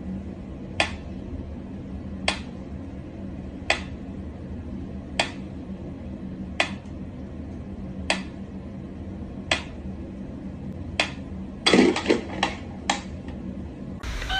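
Sharp single taps or clicks at an even pace, about one every second and a half, then a quick run of five or six near the end, over a steady low hum.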